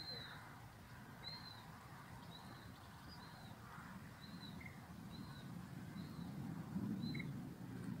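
A bird giving a short, high chirp over and over, about once a second, faint, over a low background rumble that grows louder near the end.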